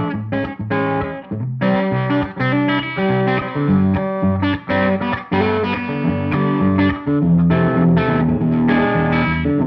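Electric guitar played through a Tone King Gremlin amplifier's rhythm channel, strumming chords with a mildly overdriven tone: short choppy strokes mixed with a few held, ringing chords.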